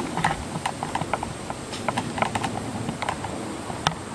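A run of irregular light clicks and taps, several a second, over a faint steady hiss.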